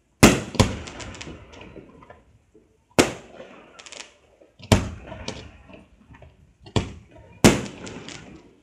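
Aerial firework shells bursting: about six sharp bangs, two close together near the start, each trailed by smaller crackles and a fading echo.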